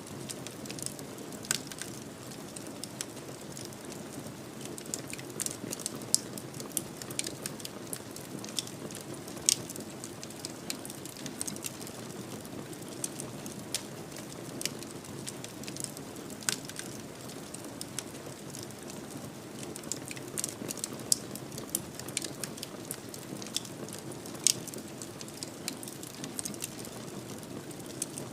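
Wood fire burning in a fireplace: a steady soft hiss with irregular sharp crackles and pops, a few louder pops standing out.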